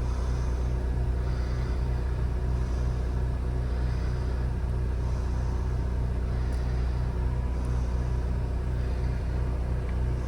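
RV's onboard generator engine running steadily: a constant low hum with a fast, even low throb.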